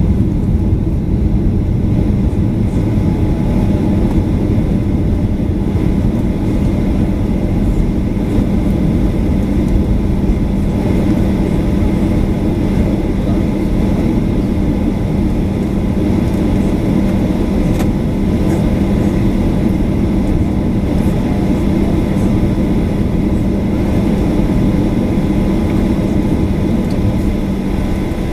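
Steady cabin noise of a Boeing 737-800 heard from a passenger seat: the CFM56-7B turbofan engines running, with airflow, making a dense low rumble and a steady hum at an even level throughout.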